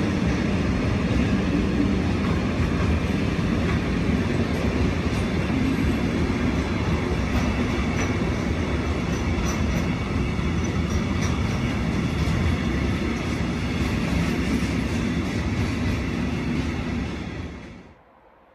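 Train passing: a steady rumble of wheels on the rails with faint clicks, which stops suddenly near the end.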